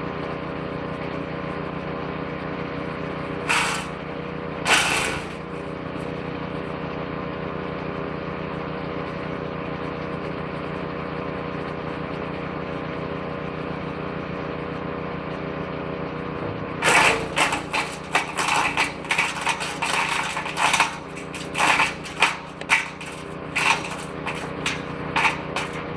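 Woodchipper-shredder's small petrol engine running steadily, with two brief crunches about four seconds in. From about seventeen seconds in, a rapid string of cracking and snapping as branches are fed in a bit at a time and chewed up by the shredder drum.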